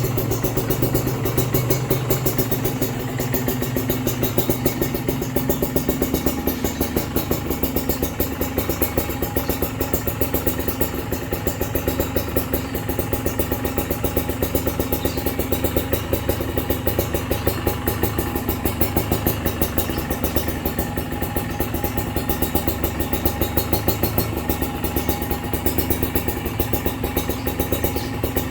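Kawasaki Ninja SS two-stroke motorcycle engine idling steadily through a KJR Racing aftermarket exhaust, its low tone shifting slightly about six seconds in.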